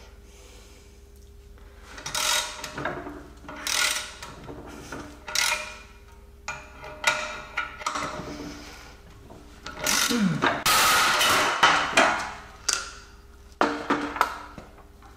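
Hand-tool work on a car's front suspension ball joint, with a ball joint separator in use. After a quiet start, there is an irregular run of scraping and clanking strokes that is busiest a little past the middle.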